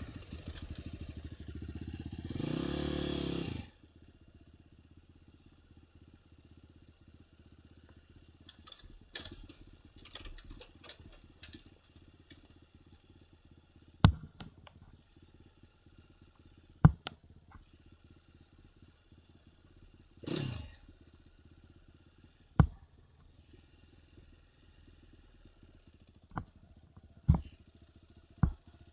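Enduro motorcycle engine revving loudly for the first few seconds, cutting off abruptly to a much quieter steady low engine running. A short rev comes about two-thirds of the way through, along with several sharp, separate clicks or knocks.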